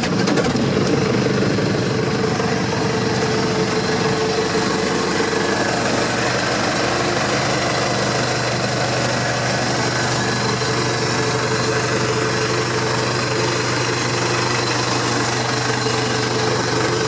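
Vermeer BC1000XL wood chipper's 3.3-litre Cummins 85 hp turbo diesel, running steadily just after being started.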